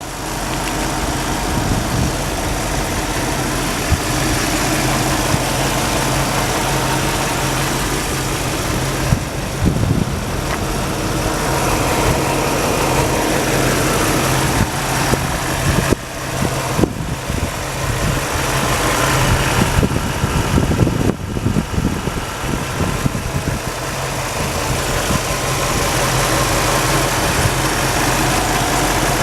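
1962 Chevrolet Impala engine idling steadily, its note changing briefly a few times.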